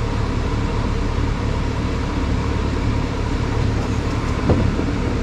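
Steady low mechanical hum with a brief knock about four and a half seconds in.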